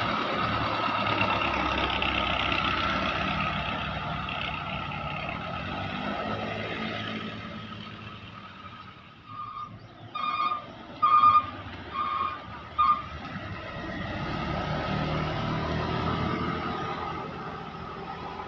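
Heavy truck traffic running past, fading away, then five short high beeps about a second apart, before another vehicle approaches.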